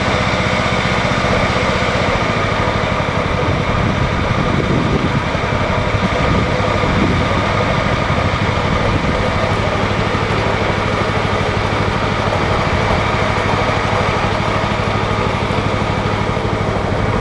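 John Deere LX172 lawn tractor's engine running steadily, warming up just after a cold start following about three months of sitting.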